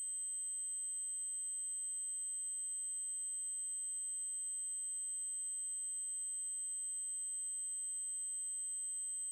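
Steady, very high-pitched 8192 Hz triangle-wave test tone, holding one pitch without change.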